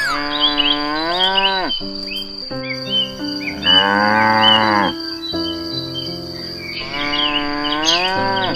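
Cattle mooing: three long calls, each dropping in pitch at its end, with bird chirps and a steady high cricket-like trill behind them.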